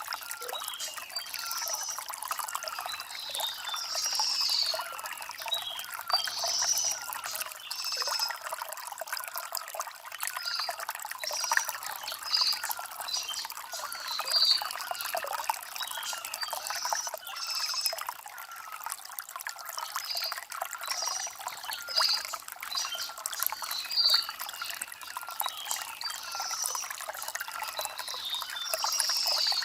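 Stream water trickling and splashing over river stones, a light, bright sound with little low rumble. Short bird chirps come every second or two over the water.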